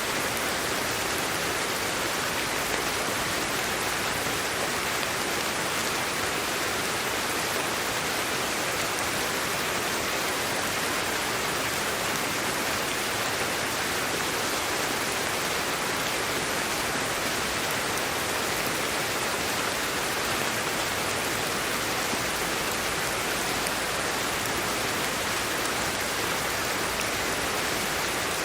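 Steady sleep-aid white noise: an even, unchanging hiss with no breaks or events.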